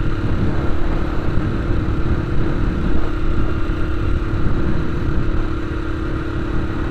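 A vehicle travelling along a road: steady engine hum and heavy low road rumble.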